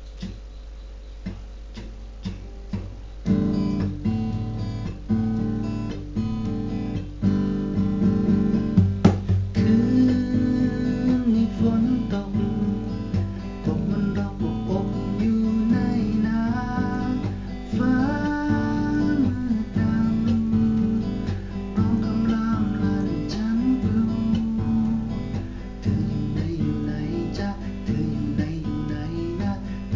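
Acoustic guitar playing a tune, starting about three seconds in after a few faint clicks, over a steady low hum.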